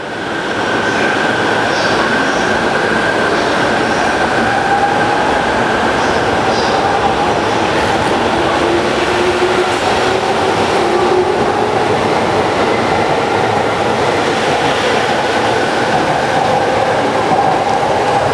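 JR Sobu Line local electric train running by, a loud steady rush of wheels and running gear with faint drawn-out motor tones that drift slowly in pitch.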